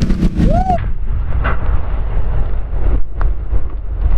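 Ford F-150 Raptor R's supercharged 5.2-litre V8 running under way, with a heavy low rumble and wind noise on the microphone. The sound turns duller just under a second in, and two short knocks come later.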